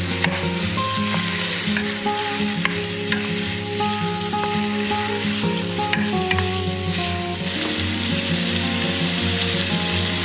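Raw pork cubes, onion and garlic sizzling in hot oil in a pan, stirred with a wooden spatula that scrapes and taps against the pan. The sizzle grows stronger about three-quarters of the way through.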